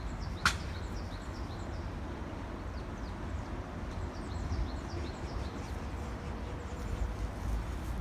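Small birds chirping in short, quick descending notes over a steady low rumble, with one sharp click about half a second in.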